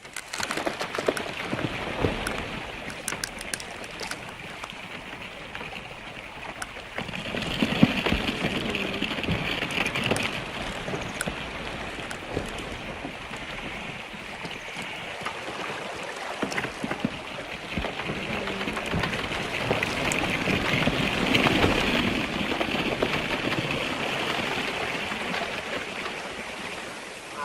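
Breaking-up lake ice shifting and grinding in the water: a continuous crackling, trickling hiss full of small clicks. It swells louder about seven seconds in and again around twenty seconds.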